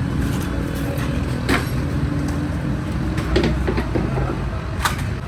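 Steady low rumble of road traffic, with a few short sharp clicks about one and a half, three and a half and five seconds in.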